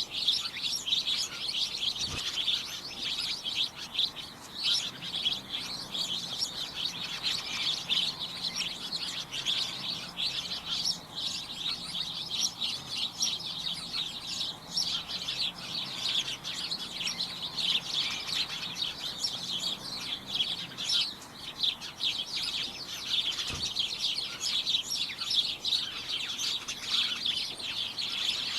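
A group of birds chirping and tweeting continuously, many short overlapping high-pitched chirps in a busy chorus, thinning briefly a couple of times.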